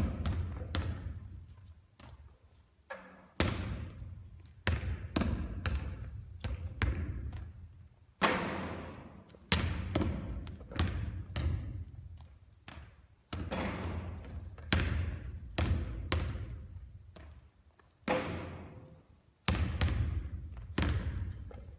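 A basketball bouncing and hitting hard surfaces over and over during repeated three-point shooting. Sharp impacts come roughly every one to two seconds, each trailing off slowly.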